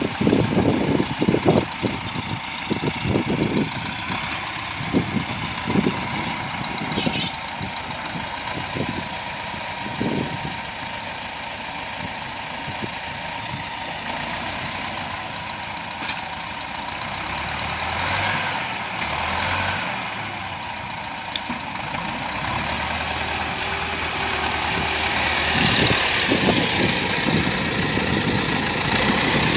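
T-40 tractor's diesel engine running steadily, with irregular low knocks and clunks through the first ten seconds. The engine grows louder in the last few seconds.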